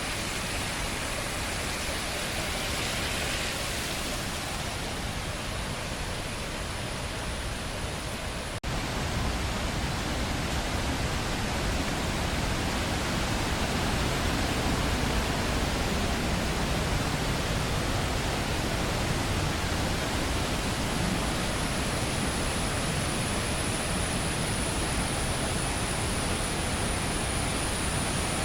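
Steady rushing roar of a waterfall, an even noise with no pitch; about eight and a half seconds in it cuts abruptly to a louder stretch of the same roar.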